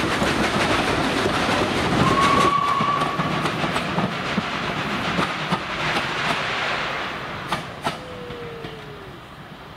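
Steam-hauled train passing, its wheels clattering rapidly over the rail joints and fading as it moves away. A short steady high tone sounds about two seconds in, and a falling tone comes near the end.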